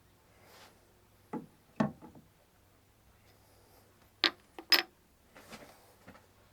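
Metal clinks and knocks of strut top-mount parts and tools being handled during reassembly: two pairs of sharp knocks, the second pair about four seconds in loudest and ringing briefly like steel, followed by a few faint ticks.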